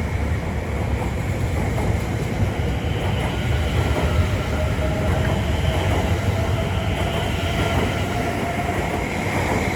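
A Greater Anglia Class 720 Aventra electric multiple unit, two units coupled, running along the platform. It makes a steady rumble of wheels on rail, with faint steady high tones over it.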